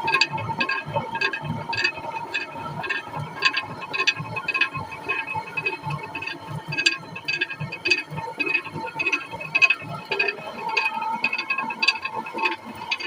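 Traditional water-powered flour mill running: a steady, even clacking of about two knocks a second over a continuous hum.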